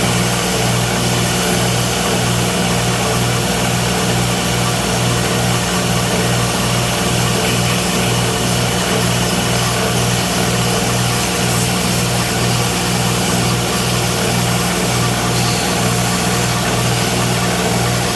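A workshop machine's electric motor running steadily: a constant low hum that pulses evenly, under a steady hiss.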